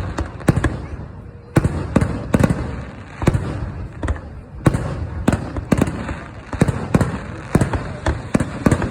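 Aerial fireworks bursting in quick, irregular succession, about two sharp bangs a second, each trailing off in a low rumble.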